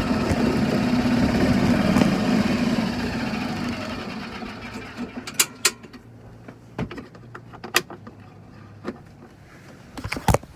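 Golf cart running with a steady hum, fading out after about four seconds, followed by a few scattered sharp clicks and knocks.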